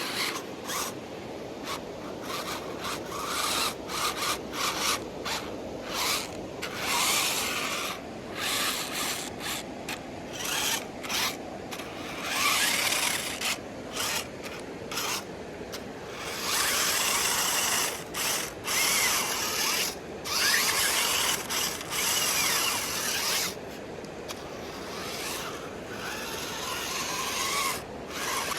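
RC 4x4 cars driving on a dirt track in repeated short bursts of throttle: the motors and gears whine and grind, with faint rising whines, while the tyres scrabble over the ground.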